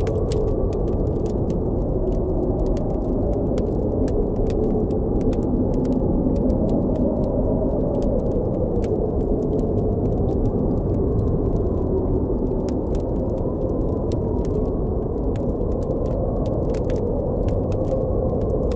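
Blizzard wind blowing as a steady low rush with slowly wavering howling tones, over a campfire crackling with frequent small, sharp pops.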